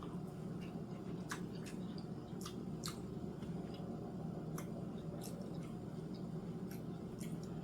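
Close-up mouth sounds of someone chewing green beans: scattered wet clicks and squishes over a steady low hum.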